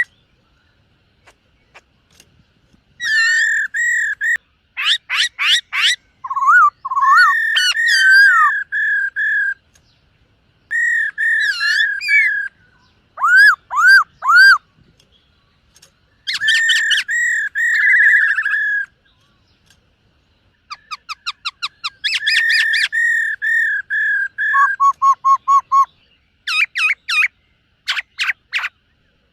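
Black-throated laughingthrush singing: loud phrases of fast repeated whistled notes, some sliding up and down in pitch, broken by short pauses of a second or two.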